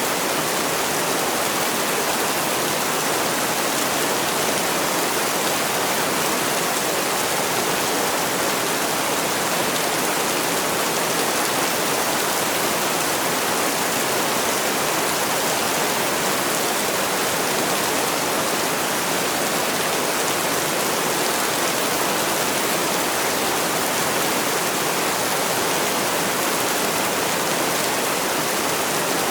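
Heavy rain falling as a steady, even hiss, with no single drops or other events standing out.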